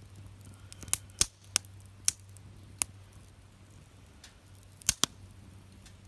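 Firewood burning in a fire pit, crackling with about seven sharp, irregular pops.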